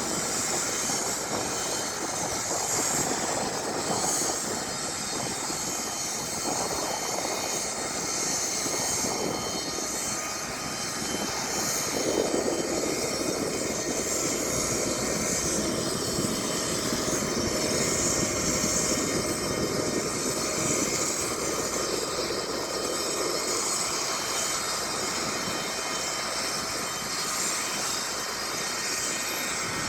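Aircraft engine running steadily, a continuous rushing hum that grows a little louder for about ten seconds midway.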